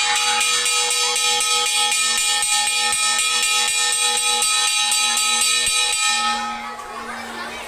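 Metal alarm bell ringing with fast, even strokes for about six seconds, then dying away: the alarm signal of an earthquake drill.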